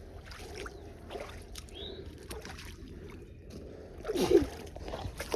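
Creek water sloshing and splashing faintly, with scattered small knocks. A short vocal sound comes about four seconds in.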